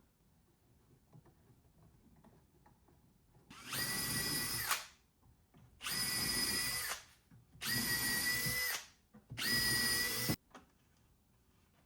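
Power drill run in four short bursts of about a second each, each spinning up with a quick rise in pitch and then holding a steady whine.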